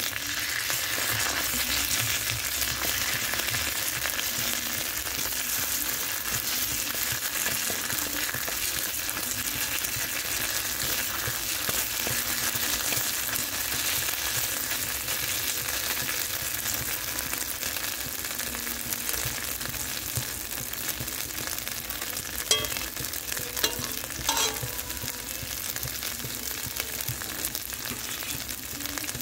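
Spice paste of cumin paste, ginger paste and chopped green chillies sizzling and frying in hot oil in a kadai, with a steady hiss as it is stirred. A few sharp clicks come near the end.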